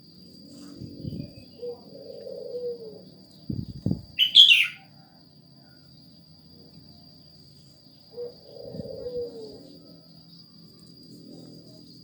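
Birds calling: one loud, sharp chirp a little over four seconds in, and lower calls twice, early on and again near the end. Two dull thumps come just before the chirp, over a faint steady high whine.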